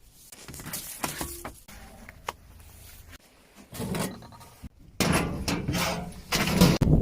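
Scattered light knocks, clicks and rubbing of things being handled in a small room. About five seconds in, a loud rushing noise starts and keeps going.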